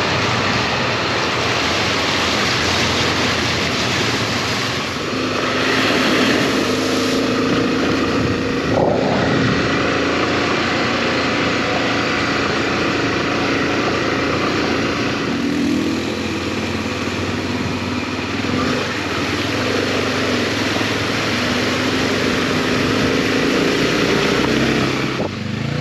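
Honda XRE300 single-cylinder motorcycle engine running under way, its note shifting in pitch over a dense steady rushing noise.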